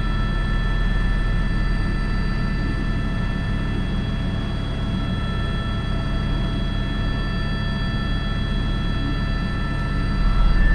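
Airbus H125 (AS350 B3) helicopter in flight, heard from the cockpit: a steady turbine whine of several fixed high tones over the low, even beat of the main rotor. It gets somewhat louder near the end.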